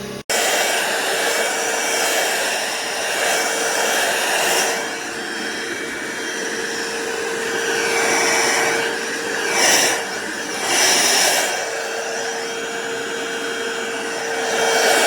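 Roomie Tec SlimVac cordless stick vacuum running, a steady motor whine under a rush of airflow. It swells louder several times as it is pushed over the floor.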